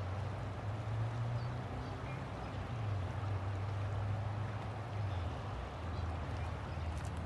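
River water flowing steadily, with a low rumble running underneath.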